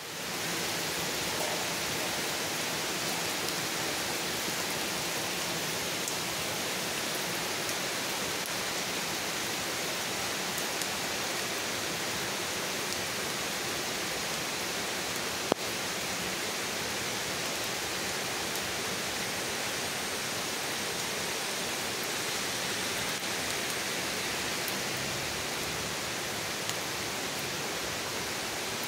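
Steady heavy rain falling on trees, grass and pavement, an even hiss with one sharp click about halfway through.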